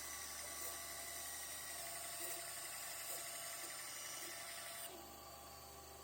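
Bandsaw running with a steady hum and a high hiss, its blade guided by a new attachment of HDPE and ball bearings; the hiss drops away about five seconds in while the motor keeps running.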